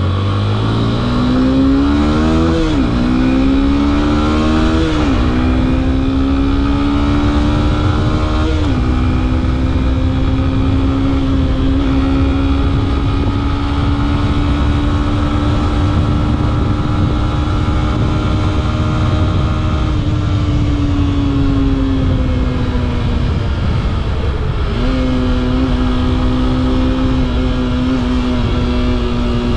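The Yamaha FZ S V3's 150cc single-cylinder engine accelerates through three gears, its pitch rising and dropping back at each upshift. It then holds a steady cruise, slows with falling revs past the twenty-second mark, and jumps up once to run steady again. Wind rumbles underneath throughout.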